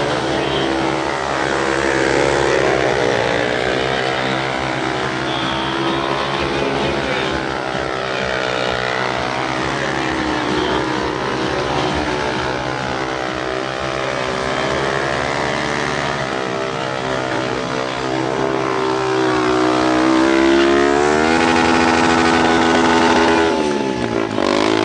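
Motorcycle engines running steadily, then revving with a rising pitch about twenty seconds in and again near the end.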